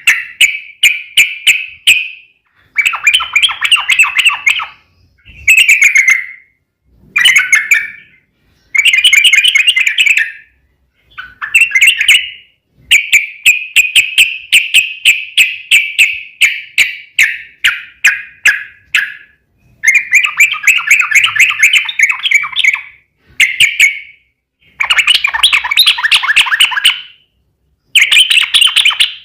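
Yellow-vented bulbul (trucuk) song: loud bursts of fast-repeated chattering notes, each phrase one to three seconds long with short pauses between. It is a recorded 'ropel panjang' (long rolling) song of the kind played as a lure to set other bulbuls singing in reply.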